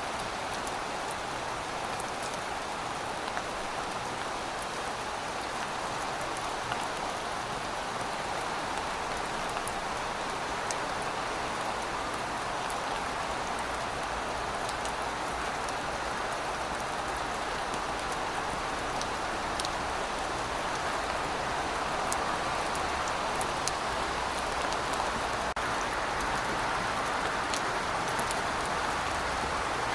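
Heavy rain falling steadily, an even hiss with scattered sharp drop ticks, growing slightly heavier over the last ten seconds.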